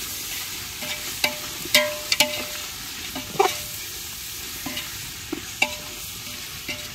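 Chicken and biryani masala sizzling in a pot as it is stirred and lightly fried, with a spoon knocking and scraping against the pot several times, each knock ringing briefly.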